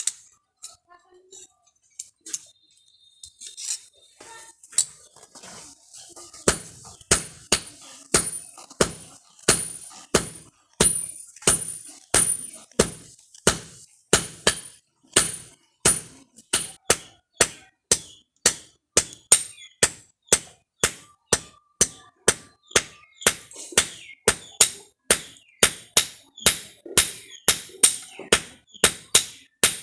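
Hand hammer striking steel on an anvil, each blow leaving a short high metallic ring. A few light taps come first, then a steady run of blows that quickens to about two a second.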